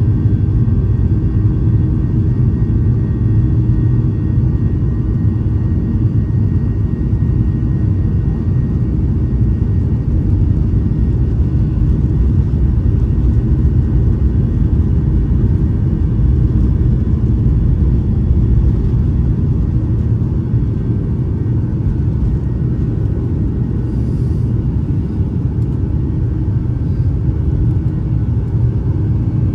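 Steady, loud rumble of a Boeing 737-800 heard inside the cabin from a seat over the wing, dominated by the noise of its CFM56 turbofan engine, with faint steady whining tones above it.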